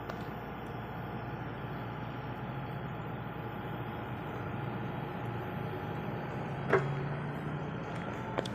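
Diesel engine of an excavator working a load, running steadily. A single sharp knock comes about seven seconds in and a smaller click near the end.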